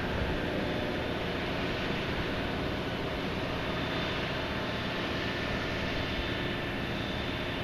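Steady drone of heavy engine machinery under an even hiss, holding level with no changes.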